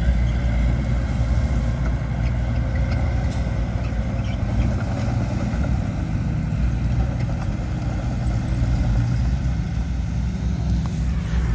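Heavy earthmoving machine's diesel engine running steadily at low revs, a deep even drone.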